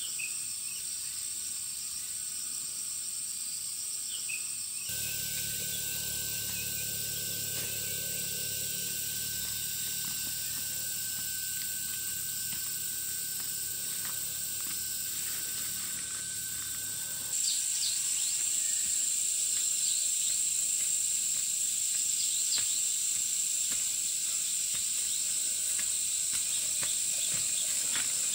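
A steady, high-pitched chorus of insects such as crickets, trilling without a break. The background changes abruptly twice. Between those changes a thin steady whine and a low hum sit under the chorus.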